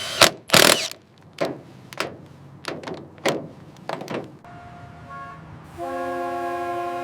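A run of sharp knocks and clicks, then a steady horn tone that becomes a held chord of several notes about two-thirds of the way in.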